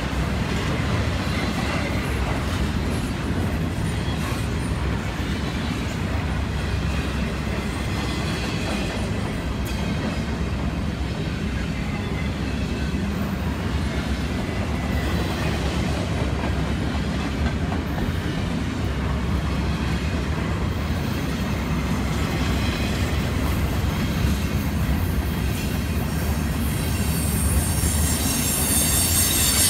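Double-stack intermodal well cars of a CSX freight train rolling past with a steady rumble of steel wheels on rail. A high wheel squeal rises near the end as the cars take the curve.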